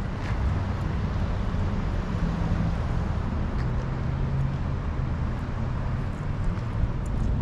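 Steady low rumble of a motor vehicle, engine and road noise with no sudden events.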